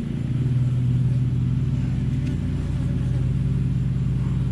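Agitated honeybees from an open hive buzzing around the beekeeper in a steady, loud low hum: the bees are defensive and have just stung him.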